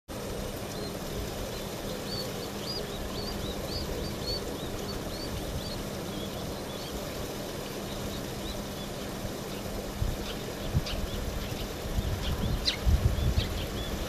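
Birds twittering: a run of short, high chirps through the first half and a few sharper calls near the end, over a steady low background rumble, with some low thumps near the end.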